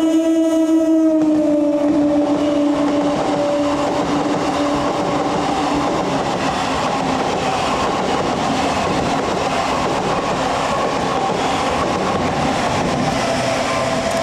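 Express train passing through a station at speed: the locomotive's two-tone horn is held and drops in pitch about a second in as it goes by, fading out after a few seconds, followed by the loud, steady rushing clatter of the coaches running past.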